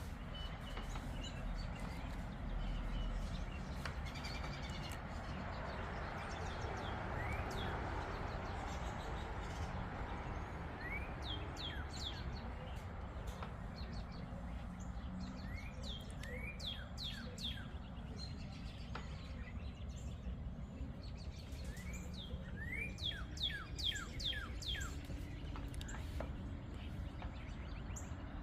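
Birds chirping in quick runs of short, falling notes, mostly from about a third of the way in, over a steady low background noise.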